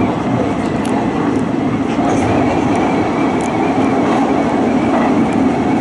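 Hanshin Railway electric train running steadily between stations, heard from inside the passenger car: an even rumble of wheels and running gear, with a few faint high ticks.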